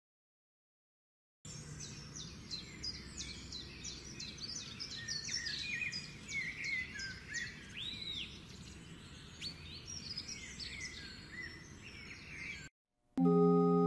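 Several small birds chirping and singing over a low steady background rumble. It starts about a second and a half in and cuts off abruptly near the end, where an organ begins a sustained chord.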